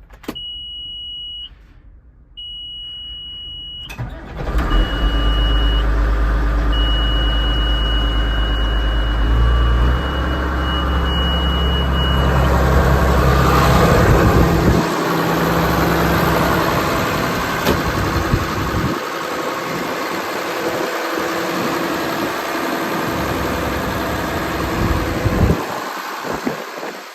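Case IH 7120 tractor's diesel engine cranking and starting about four seconds in, then running steadily. A high, steady warning beep from the cab sounds twice before the start and keeps beeping on and off for several seconds after it.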